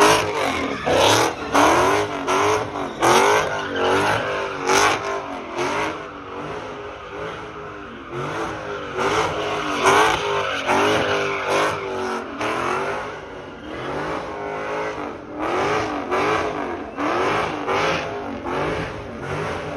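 Dodge Challenger doing a burnout and donuts, its engine revved hard over and over in rising and falling pulls about once or twice a second while the rear tyres spin on the pavement.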